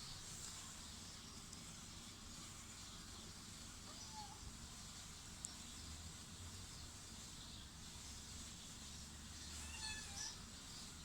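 A kitten mewing faintly over steady background hiss: a short high call about four seconds in, then a few thin high-pitched mews near the end.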